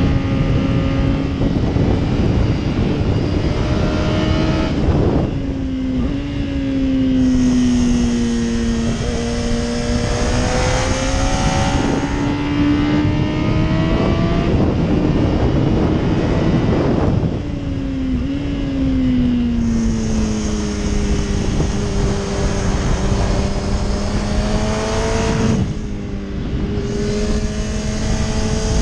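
Yamaha R1 RN12 inline-four engine under way at track speed, heard onboard with wind rush. The engine note holds steady, then falls sharply around five seconds in and again from about seventeen seconds, as the bike slows for corners.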